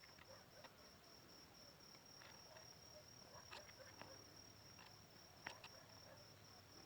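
Faint, steady chirring of crickets in one high, slightly pulsing note, with a few soft clicks and short chirps scattered through.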